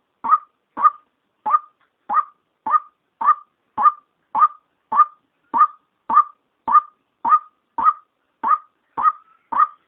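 White-breasted waterhen female call used as a trapping lure: a short call repeated at a very even pace, a little under twice a second.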